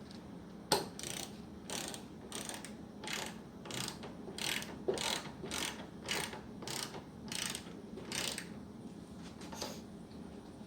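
A ratchet wrench with a 12 mm socket turning a battery terminal clamp nut, clicking in about a dozen short back-and-forth strokes that stop shortly before the end.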